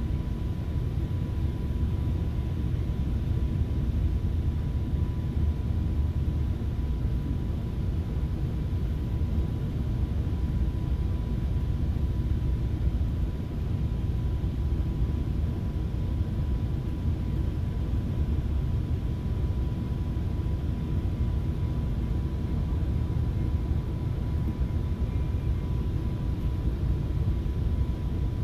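Steady low rumble of a moving FrontRunner commuter train heard from inside a passenger coach, with a faint steady high whine.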